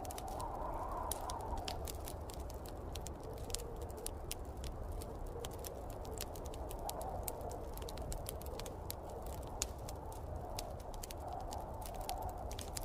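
Wood fire crackling in a fireplace, with many small irregular pops, over a steady low rush of snowstorm wind that swells and eases.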